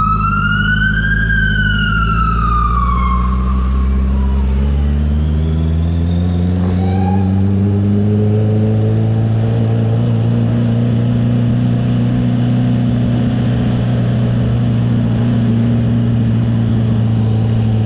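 Honda CB650R's inline-four engine with a CS Racing exhaust running under way; its pitch climbs gradually through the first half, then holds steady. Over it at the start, a siren wails up to a peak and falls away, gone about four seconds in.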